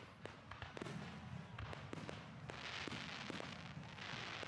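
Aerial fireworks going off: a quick run of sharp bangs and pops, then a dense hiss of crackling from about two and a half seconds in.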